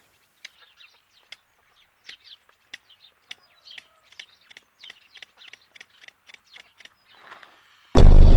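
A quiet series of short, sharp bird chirps or clicks, two or three a second. Loud music cuts in near the end.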